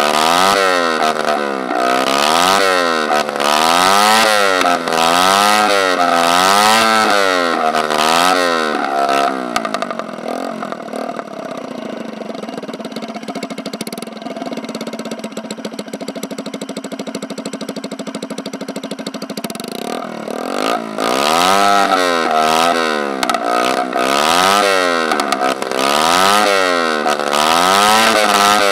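Peugeot Kisbee 4T 50cc single-cylinder four-stroke scooter engine, running on E85 with no silencer, only the bare exhaust line. It is blipped up and down about once a second, settles to a steadier lower run for about ten seconds in the middle, then is blipped repeatedly again near the end.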